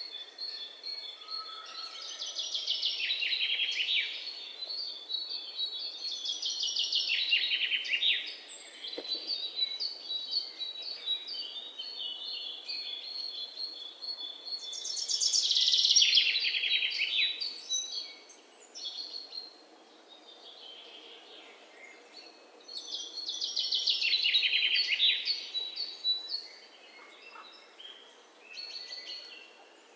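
Songbirds singing. Phrases of rapid trills come every few seconds, each falling in pitch, and runs of high repeated chirps fill the gaps between them. The loudest phrase comes about halfway through.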